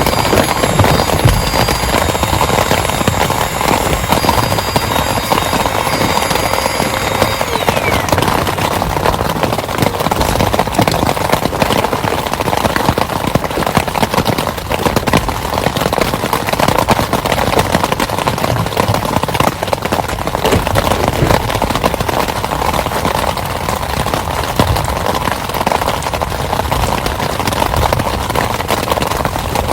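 Heavy rain pouring steadily, a dense, unbroken patter of drops.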